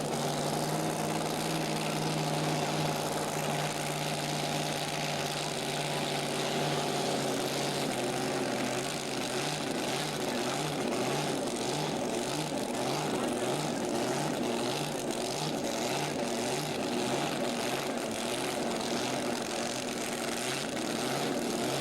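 Large engine running at a steady speed, a continuous drone that begins to waver in a regular pulsing beat about a third of the way in.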